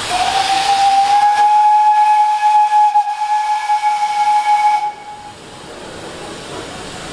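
Steam locomotive whistle giving one long blast of about five seconds, sliding up slightly in pitch as it opens and then holding steady before cutting off. Steam hiss runs underneath.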